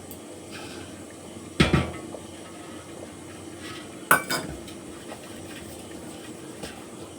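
A metal spoon clattering against a pot, twice, sharply, about one and a half and four seconds in, as boiled rice is scooped out of its starchy cooking water into a bowl. A steady low hum runs underneath.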